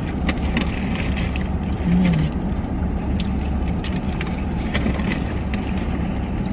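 Steady low rumble of a car's interior, with light clicks and rustles scattered through it and a brief low hum about two seconds in.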